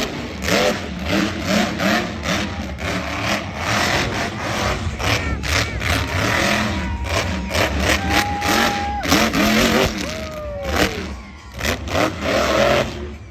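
Monster truck engine revving hard in repeated, uneven bursts over a continuous low rumble.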